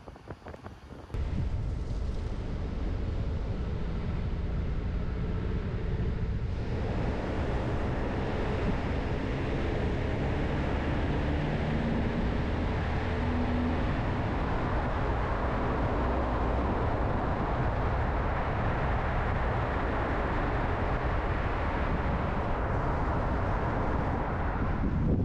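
Car driving on a mountain road: a steady rush of road and wind noise that jumps up sharply about a second in and grows brighter and fuller a few seconds later.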